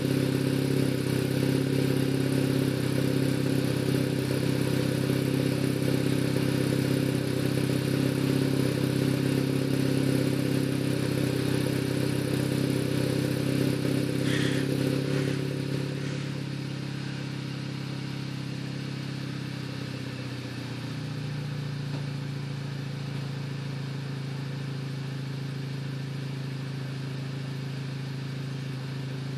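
Car exhaust through a 76 mm pipe with one muffler and an MG Race resonator: the engine is held steady at raised revs, then drops back to a quieter, lower idle about halfway through.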